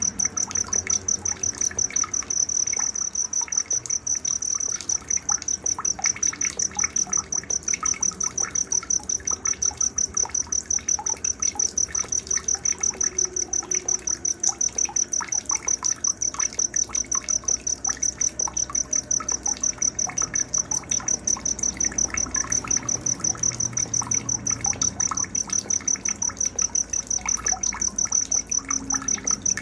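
Night-time nature sounds: a cricket chirping continuously in a fast, even pulse, the loudest thing throughout, with scattered bird chirps and calls beneath it.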